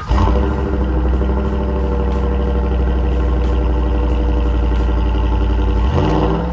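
Truck engine running at a steady idle, then revving up near the end.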